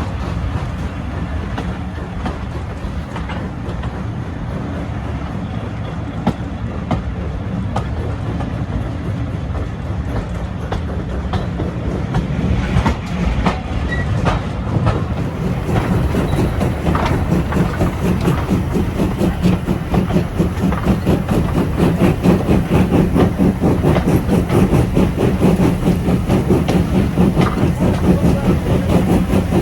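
Train running on the rails, a steady rumble that grows louder about halfway through and takes on a fast, regular pulsing beat.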